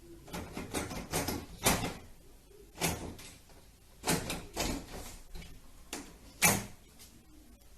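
A door rattling and knocking in its frame, struck about nine times at uneven intervals, the loudest knock about six and a half seconds in.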